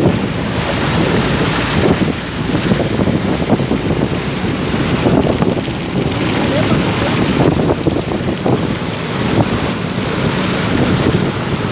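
Wind buffeting the microphone over rushing, splashing water, with many irregular crackles and a faint low hum underneath.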